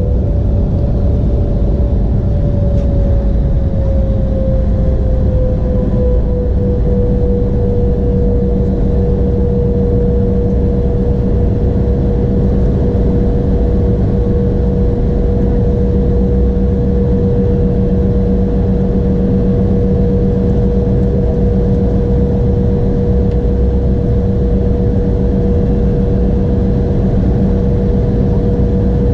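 Embraer E175 jet cabin noise from its GE CF34 turbofan engines: a steady loud rumble with an engine whine that slides down in pitch over the first several seconds, then holds steady.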